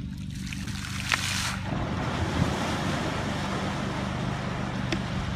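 A steady low motor hum under a loud rushing noise that swells up about half a second in.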